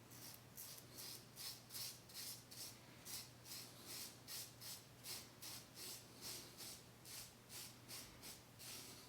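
Faint, quick scrapes of a Merkur Futur adjustable double-edge safety razor with a Dovo blade cutting through two days of lathered stubble, about three short strokes a second.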